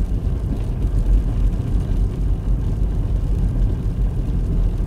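Car driving at steady speed, heard from inside the cabin: a constant low rumble of road and engine noise.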